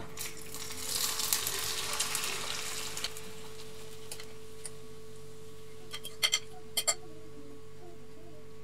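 Tortilla mixture of beaten egg, fried potato, green pepper and onion poured into hot oil in a non-stick frying pan, sizzling loudest for the first few seconds and then settling. Near the end a metal spoon spreading the mixture clicks against the pan a few times.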